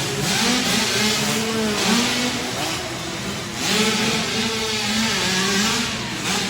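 Several 65cc two-stroke dirt bike engines revving, their pitches rising and falling and overlapping as the pack races, with two louder surges of throttle.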